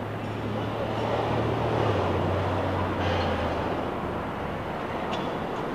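Steady noisy rumble with a low motor hum that drops in pitch about two seconds in and stops a little later.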